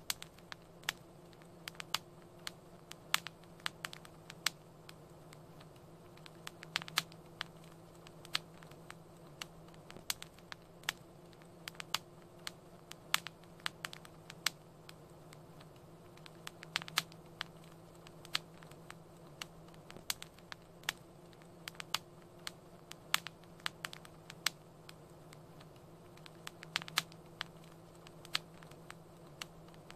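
Wood fire crackling: irregular sharp pops and snaps, several a second at times, over a faint steady low hum.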